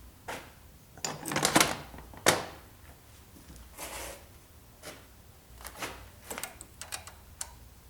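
Timing chain and cam gear being handled while lining up the timing: a string of sharp clicks and short clatters, with a burst of them and a louder knock in the first few seconds, then lighter scattered clicks.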